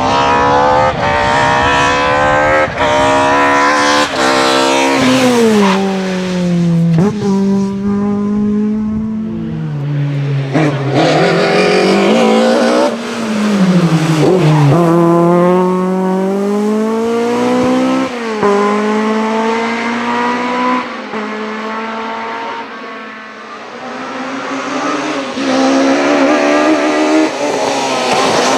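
Rally car engine revving hard under load, its pitch climbing and then falling sharply about half a dozen times as it shifts gears and lifts through the stage.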